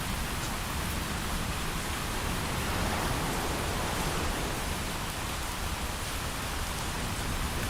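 Steady heavy rain falling, an even dense hiss that swells slightly around three seconds in.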